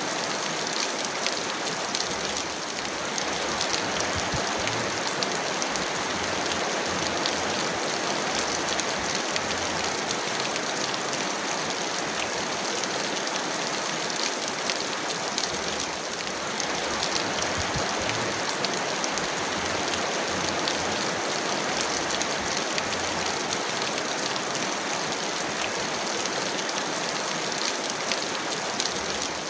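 Heavy rain falling steadily, with many individual drops ticking sharply close by over a dense wash of rainfall.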